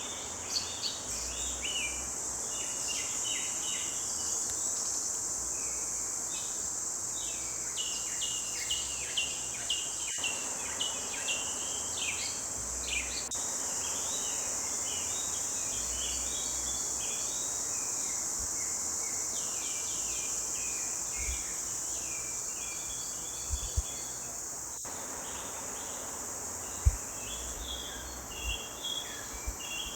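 Songbirds chirping and trilling in a forest, many short calls overlapping, over a steady high-pitched insect drone. A few brief low thumps come in the last seconds.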